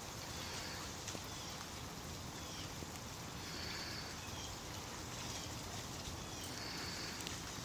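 Steady rain falling, an even hiss of drops. Faint, short high-pitched calls recur every second or two over it.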